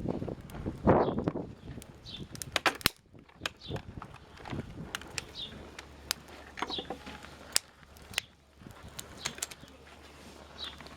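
Twig fire in a Lixada stove crackling with sharp irregular snaps, wind gusting on the microphone in the first couple of seconds, and small birds chirping briefly in the background.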